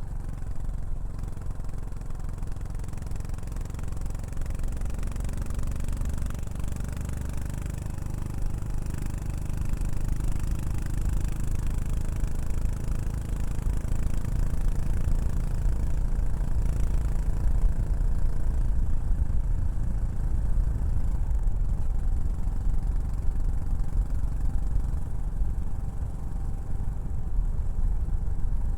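Exhaust note of a Yamaha SR400's air-cooled single-cylinder four-stroke engine breathing through a Prunus aftermarket muffler, running steadily with small shifts in engine speed. It gets a little louder about ten seconds in.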